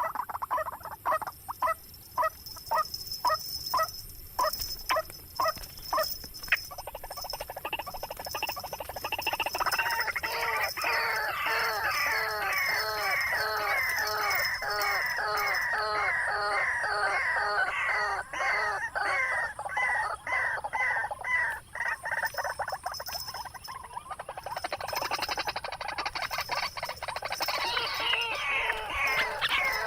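White-breasted waterhen calling: a series of repeated, spaced notes that builds into a long, fast run of rapid, arching notes, with a brief lull before the calling picks up again near the end.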